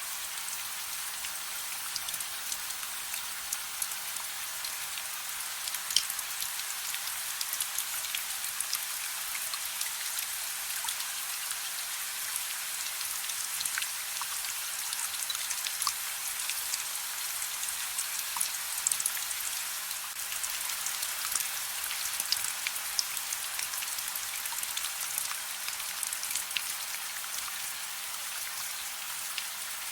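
Steady soft rain: an even hiss with many individual drops ticking sharply through it.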